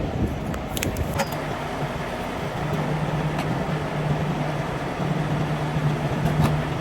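Semi truck's diesel engine running at idle with a steady low hum. A few sharp clicks come about a second in and again near the end.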